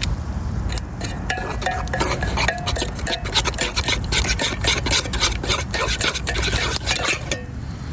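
A utensil stirring and clinking in a cooking pot: a dense run of clicks and scrapes with short metallic rings, easing off near the end.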